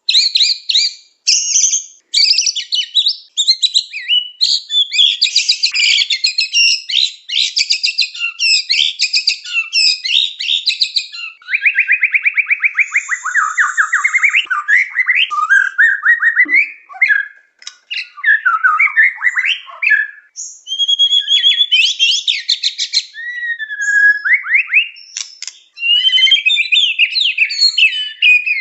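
White-rumped shama singing a loud, fast and varied song of whistled phrases, rapid trills and rattles, with a few short pauses.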